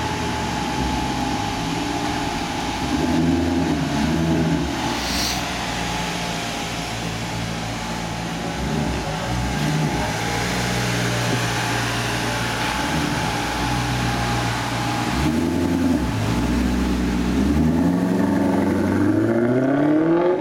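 Maserati GranTurismo S's V8 engine running at low speed with a few short throttle blips, then revving up in a long rising pull over the last few seconds as the car drives off.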